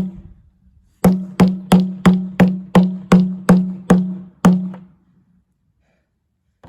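A mini sledgehammer striking the steel tank of a water heater: one blow, then a quick run of about ten blows at about three a second, each leaving the tank ringing at the same low pitch. The blows only dent the tank without piercing it.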